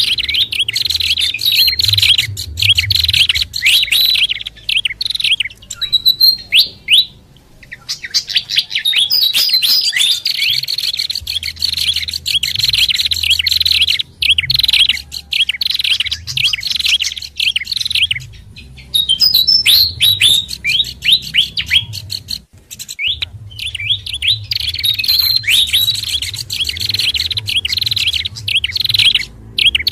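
Bird-lure recording of small songbirds calling: dense, rapid chirps and twitters in quick runs, broken by a few short pauses.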